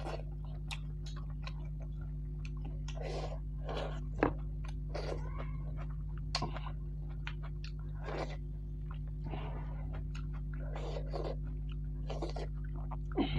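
Close-miked eating sounds of a person chewing and biting bone-in mutton feet curry: irregular wet chewing, with a few sharp clicks, over a steady low hum.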